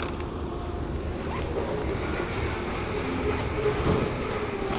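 Steady rushing noise of wind buffeting the microphone outdoors, heaviest in the low end, with faint background hum.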